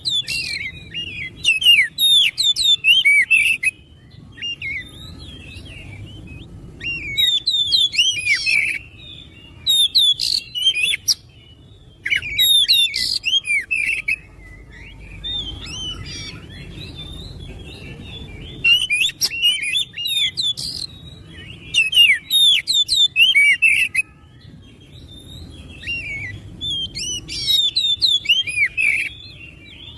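Oriental magpie-robin (kacer) singing: bursts of a second or two of fast, varied whistled notes and chirps, repeated again and again with short pauses between phrases.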